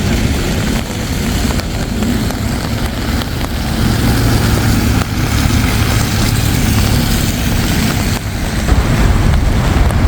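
Steady low rumble of passing motor traffic with road noise, growing louder about four seconds in as an engine hum comes up.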